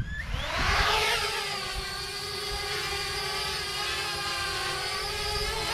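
Parrot Bebop 2 quadcopter drone's motors and propellers whining, the pitch rising over the first second and then holding steady, with low wind rumble on the microphone.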